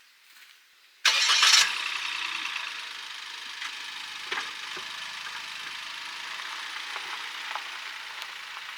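Suzuki Jimny's engine being started: a short loud burst of starter cranking and catching about a second in, then the engine running steadily at idle with a few light knocks.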